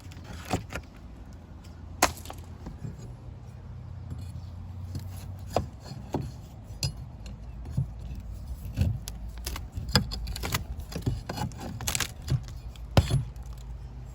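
Scattered, irregular knocks and clinks of hand work on wooden stair boards, with a steady low hum underneath.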